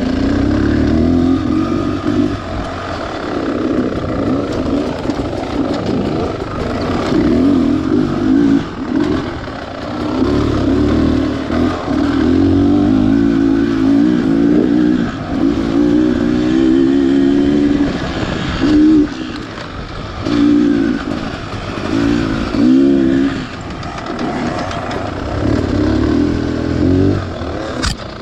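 Beta Xtrainer 300 two-stroke dirt bike engine revving up and dropping off over and over as the throttle is worked through tight woods, with a rattle from the loosely clamped exhaust pipe guard that needs repositioning and tightening.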